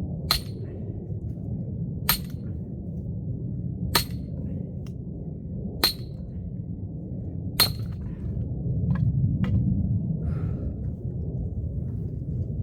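Axe blows on a knotty, still-green oak log being split: five sharp strikes about two seconds apart, each with a short metallic ring, then a few lighter knocks.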